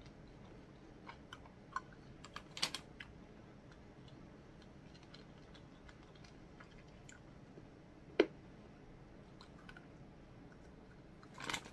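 Faint, scattered clicking and crunching of someone chewing a chalky candy, with one sharper click about eight seconds in.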